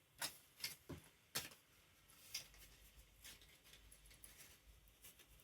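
Faint handling noises: a few soft, sharp taps in the first second and a half, then only scattered light patter close to near silence.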